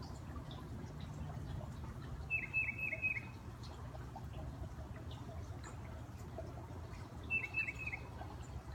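Titmouse singing: two short phrases of four or five quick repeated whistled notes, about five seconds apart, over a steady low rumble.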